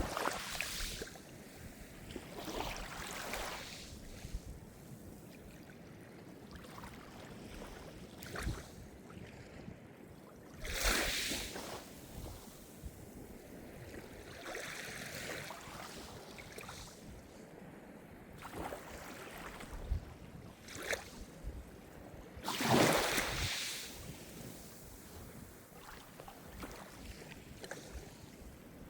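Calm Mediterranean surf: small waves breaking and washing at irregular intervals, with louder surges about 11 and 23 seconds in. Under it is a low rumble of wind on the microphone.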